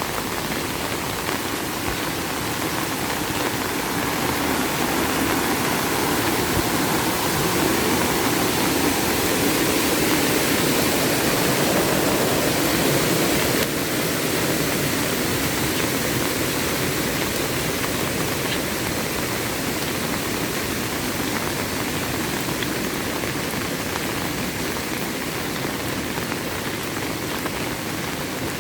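Heavy rain falling steadily. A lower rushing sound swells through the middle and cuts off suddenly about fourteen seconds in.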